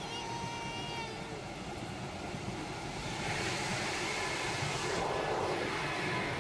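Rumble of a car-carrying train running on the rails, heard from inside a car loaded on its wagon. A brief high tone sounds in the first second. About three seconds in the rumble grows louder and hissier as the train enters a tunnel.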